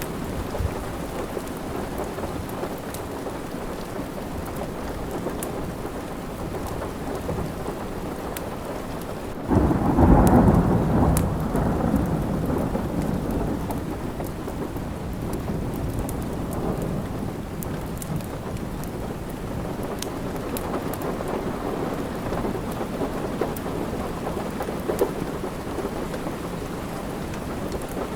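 Steady rain with a thunderclap about nine and a half seconds in, a low rumble that swells and fades over several seconds. Sharp little crackles of a wood fire are scattered throughout.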